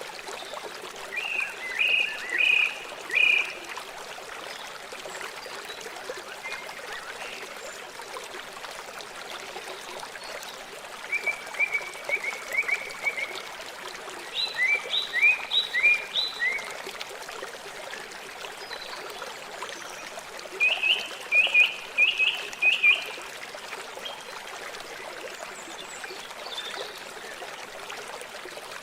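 River water flowing steadily, with a songbird singing over it: four short phrases of quick repeated high notes, spaced several seconds apart.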